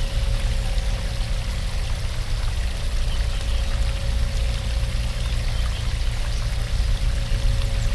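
Waterfall rushing steadily: a constant, unbroken roar of falling water, heaviest in a deep low rumble.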